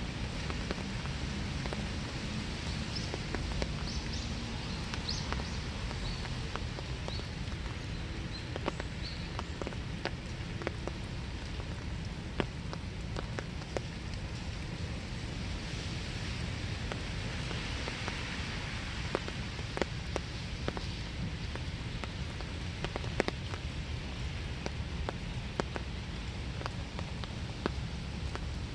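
Steady winter rain falling, with separate drops tapping sharply close by. A few short, high bird chirps come between about three and nine seconds in.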